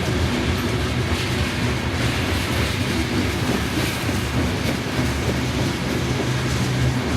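Loaded rock train of freight cars rolling past, wheels clacking over the rail joints, with a steady low hum underneath.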